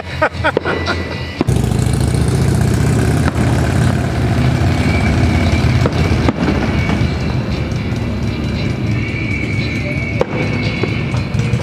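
Fireworks going off over a steady, loud din of music and noise, with sharp bangs about three seconds apart, roughly three in all.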